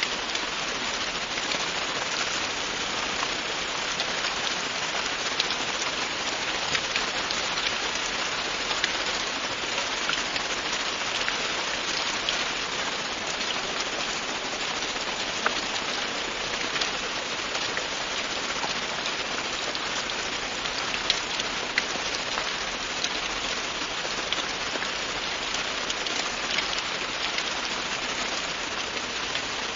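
Steady, continuous rain falling on a surface: an even hiss with many scattered drop ticks.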